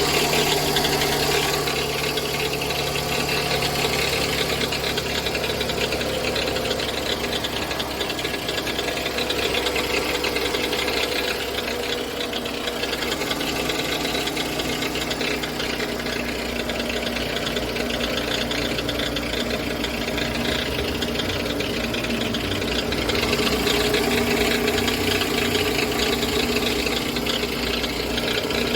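Toyota Alphard ANH20's 2.4-litre four-cylinder engine running with a steady, loud abnormal knocking rattle. The noise comes from an engine whose oil was never changed.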